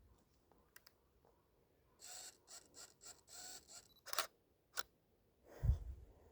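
Canon EOS 1200D DSLR shutter firing: two sharp clicks a little past four seconds in, about half a second apart, after a stretch of short rustles. A low thump near the end.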